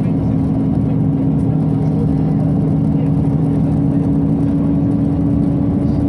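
Interior of a Scania OmniCity city bus under way: a steady drone of engine and ventilation fans, with a steady hum that steps up in pitch at the start.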